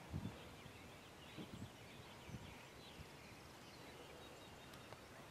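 Near silence outdoors: faint small-bird chirping, with a few soft low thumps near the start and again between one and three seconds in.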